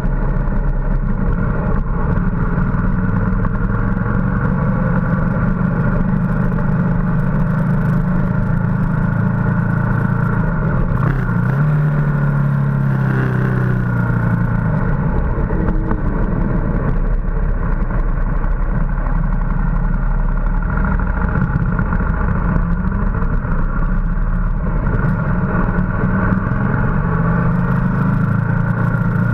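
Ducati motorcycle engine running at road speed, with steady wind noise on the microphone. About halfway through, the engine note slides up and down for a few seconds before settling again.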